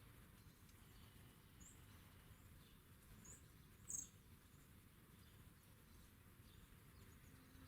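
Small songbirds at a garden feeder giving three short, high chirps, the last about four seconds in and the loudest, over a faint outdoor background.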